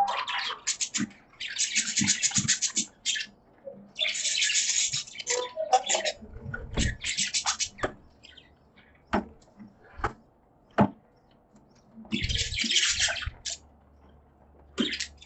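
Budgerigars chattering in a cage: bursts of raspy, high-pitched warbling about a second long, separated by quieter gaps with scattered sharp clicks and a few low thumps.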